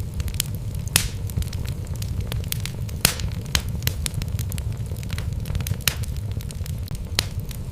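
Wood fire burning in a fireplace: logs crackling and popping at irregular moments, with sharper pops about a second in and about three seconds in, over a steady low rumble of the flames.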